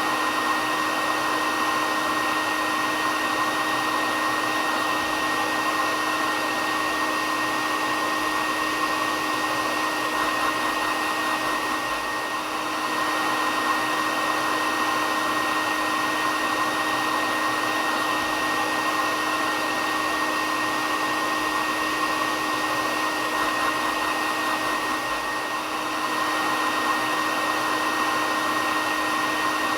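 Hair dryer running continuously: a steady blowing hiss with a constant whine. The level dips slightly twice.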